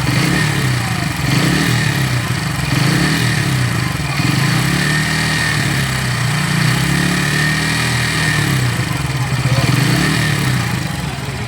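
Bajaj Pulsar N160's single-cylinder engine running, its pitch rising and falling several times as the throttle is worked, with a faint high whine over it for a few seconds in the middle. This is the engine noise that the owner presents as a problem in a brand-new bike.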